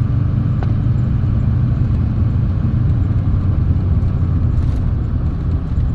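Chevy 3500 pickup driving down the road: a steady low rumble of engine and road noise.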